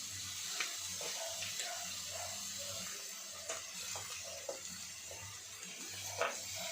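Meat sizzling on an electric grill pan: a steady hiss with a low hum under it, broken by scattered light clicks and taps, the sharpest about six seconds in.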